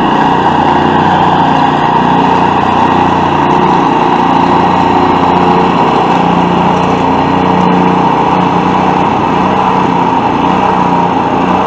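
Small four-stroke power-equipment engine running steadily at a constant speed, loud and close, with no revving or change in pitch.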